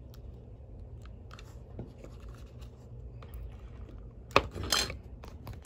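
Hand handling of plastic parts during reassembly: scattered light clicks and scratching, a sharper click about four seconds in, then a short scrape and another sharp click near the end.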